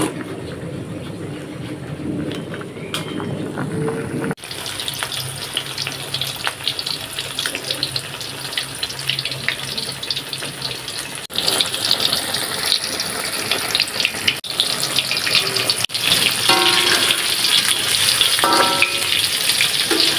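For about the first four seconds, a pot of vegetable soup bubbling as it is stirred. Then tofu and tempe deep-frying in hot oil in a wok: a steady, dense crackling sizzle, with a few short scrapes of the metal spatula near the end.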